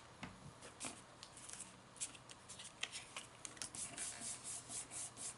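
Faint rustling and light tapping of paper: folded pages and small cards handled and lined up in a stack, in short irregular ticks that grow busier toward the end.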